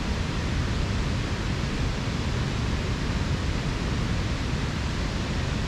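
Steady, even rushing of fast-flowing water from a creek or waterfall.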